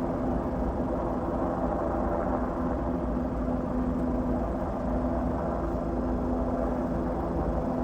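A steady engine drone with a constant low hum, running evenly without a break.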